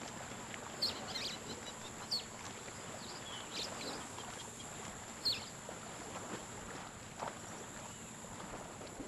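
Wild birds chirping: short, sharp, falling calls every second or so, over a steady background hiss with a constant high-pitched whine.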